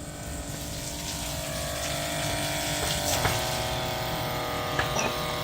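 Electric water pump on a steam boiler running steadily, its motor hum mixed with water flow as it pumps feed water into the boiler. The pitch shifts slightly about three seconds in.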